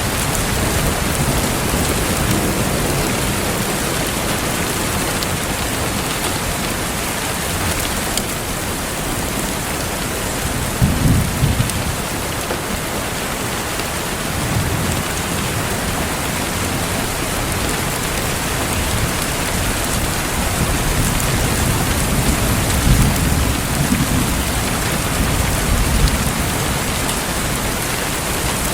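Steady rain falling. A low thunder rumble comes about eleven seconds in, and a longer, swelling rumble comes near the end.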